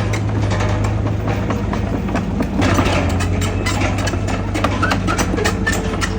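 Heavy diesel engine of earthmoving machinery running steadily, with rapid metallic clicking and clanking over the low hum.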